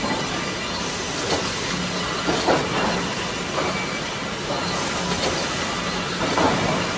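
Automatic timber processing machinery running steadily, with a hiss and a low hum under irregular knocks and clatters of boards moving through the line.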